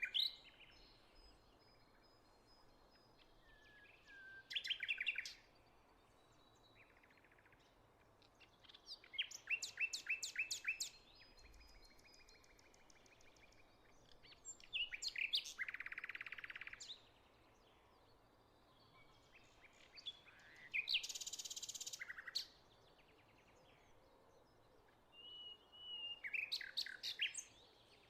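Songbirds singing: short bursts of rapid trilled and chirped song, one bout about every five or six seconds, over a faint steady outdoor hiss.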